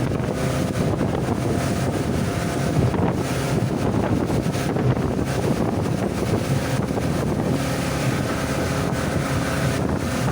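Motorboat engine running steadily, with wind buffeting the microphone and water rushing past.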